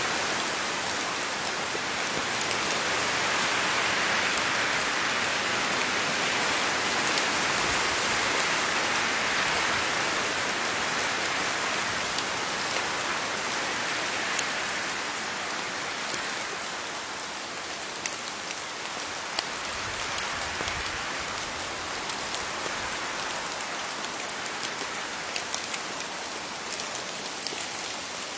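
Steady rain falling on leaves: a dense even hiss with scattered louder individual drops ticking, easing slightly about halfway through.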